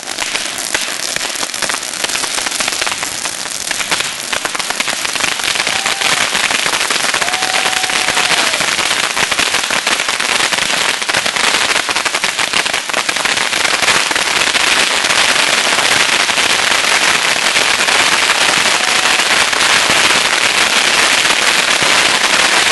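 Barrage of several thousand bottle rockets going off together from a homemade launcher: a dense, unbroken crackle of pops that grows louder, with a few short whistles.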